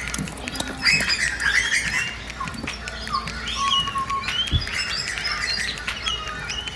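Small birds chirping and twittering, many short overlapping calls, with a single low thud about four and a half seconds in.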